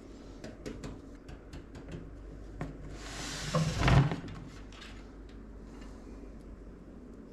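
Hands handling PC parts: a run of light clicks and taps, then a brief sliding rub that ends in a solid thud about four seconds in, followed by a few quieter ticks.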